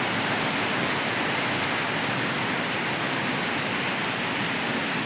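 Steady, even rushing of water during heavy monsoon rain in the hills, with no change in level.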